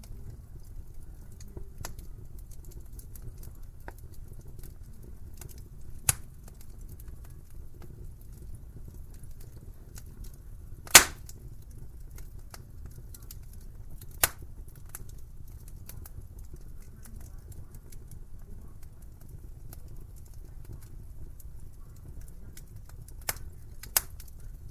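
Wood fire burning in a fireplace: a steady low rumble of flames with light crackling and a handful of sharp pops, the loudest about eleven seconds in.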